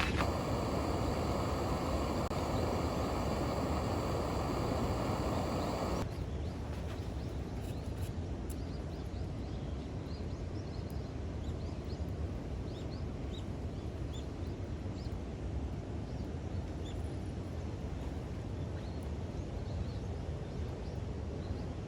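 Steady outdoor ambient noise. About six seconds in it changes abruptly to a quieter, duller hiss. From then on, faint short bird chirps come and go over it.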